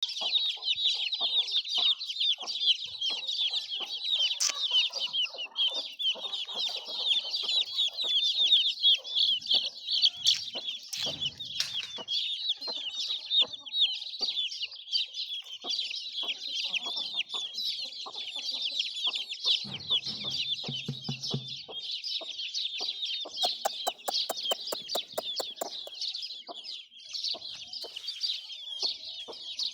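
Many chickens clucking, with dense, continuous high-pitched cheeping throughout. A brief low rumble comes twice, about a third and two-thirds of the way in, and a quick run of clicks comes near the end.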